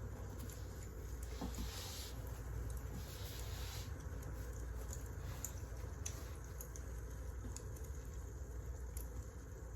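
Wood fire crackling, with scattered sharp pops over a steady low rumble and a softer hiss for a couple of seconds near the start.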